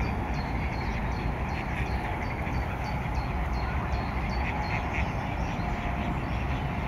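A rapid series of short, high, falling call notes, about two or three a second, from a bird, over a steady low rumble.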